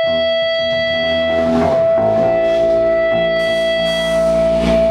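Live amplified guitar playing sustained notes as the band warms up, the lower notes changing about every second or so under one steady held high tone.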